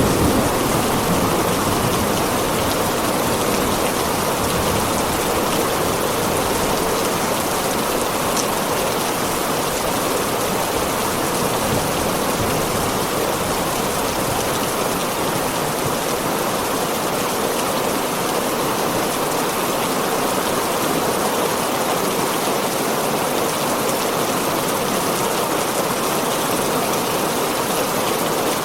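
Heavy rain falling steadily on a tin roof, an even hiss of downpour. The tail of a low thunder rumble fades out right at the start.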